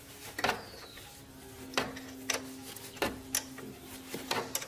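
A series of sharp clicks and taps at irregular intervals, about seven in all, over a faint steady hum.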